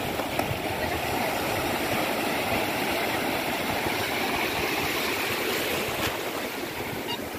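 Ocean surf: a steady rush of waves washing onto the beach.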